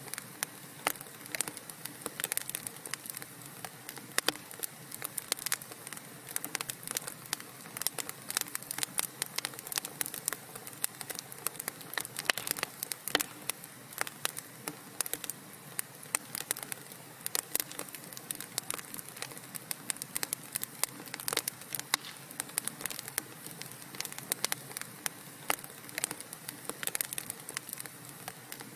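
Wood fire crackling in a fireplace: a steady hiss with dense, irregular pops and snaps from the burning logs.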